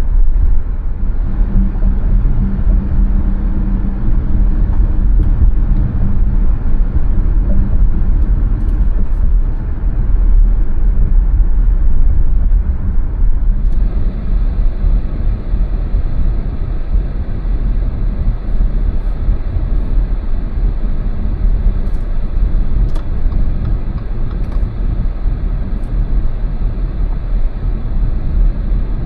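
A car driving along city streets: steady low rumble of road and engine noise.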